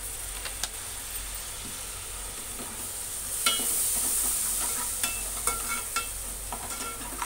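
Onion and spice masala sizzling in oil in a steel pot while a steel spoon stirs and scrapes through it, the spoon's knocks against the pot ringing briefly. The sizzle grows louder about three and a half seconds in.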